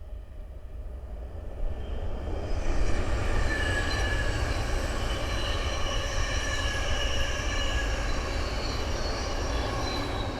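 Thameslink Class 700 electric multiple unit passing at line speed. The rumble builds over the first couple of seconds and then holds, with several high-pitched steady tones ringing above it.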